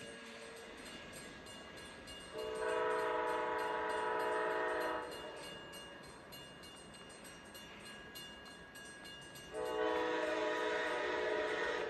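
Amtrak P42DC diesel locomotive's multi-chime air horn sounding two long blasts a few seconds apart, a chord of several steady tones, over the steady rumble of the passing train.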